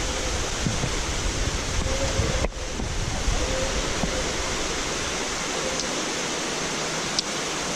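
Steady rush of water pouring over the waterfall's cascades, with a low wind rumble on the microphone during the first couple of seconds.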